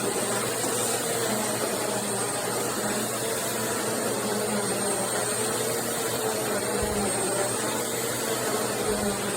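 Bissell CleanView Swivel Pet upright vacuum cleaner running steadily: an even rush of air with a faint high whine.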